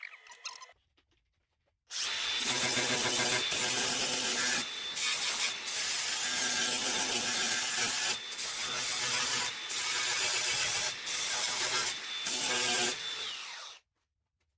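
Electric grinder running against the steel of a freshly MIG-welded car sill, grinding the welds down, in several stretches with brief breaks. Its motor whine falls in pitch as it winds down near the end.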